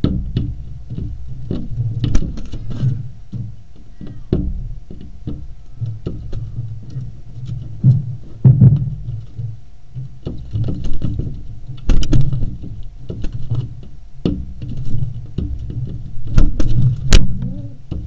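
A crow attacking its reflection in a glass door, its beak and wings striking the pane in irregular sharp taps and knocks, the loudest near the end, over a steady low rumble.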